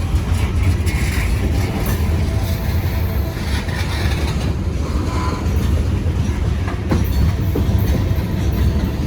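Norfolk Southern mixed freight cars rolling past at close range: a steady low rumble of wheels on rail, with a few sharp clicks.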